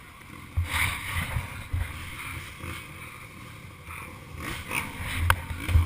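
Wind rumbling and buffeting on the camera microphone, with handling bumps and a sharp click near the end.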